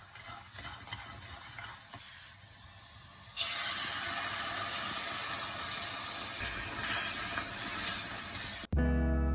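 A steady hissing noise that gets clearly louder about three seconds in and cuts off suddenly near the end.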